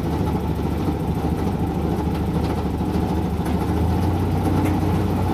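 Zoo tour train running along its track, heard from an open passenger car: a steady low engine rumble that gets a little heavier about four seconds in.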